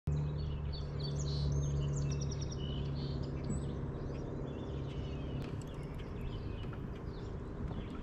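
Several birds chirping and singing, busiest in the first few seconds, over a steady low hum that eases off about halfway through.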